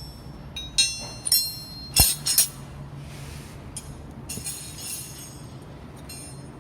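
Steel wrenches clinking against each other and against metal as they are handled. There are several short, ringing clinks, with a sharper knock about two seconds in, over a low steady hum.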